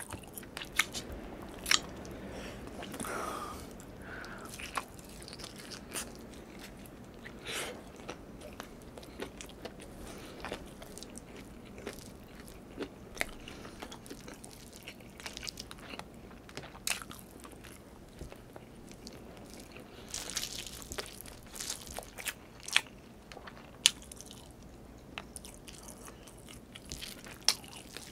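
Close-up chewing and biting sounds of a person eating chicken adobo and rice by hand, with many short sharp clicks scattered throughout.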